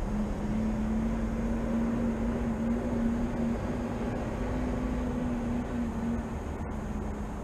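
Steady mechanical hum and rumble of city background noise, with one constant low droning tone that wavers slightly in pitch.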